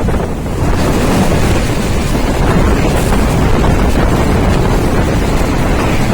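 Train running at high speed: a loud, steady rush of wheel rumble and wind, growing louder about a second in, with wind buffeting the microphone.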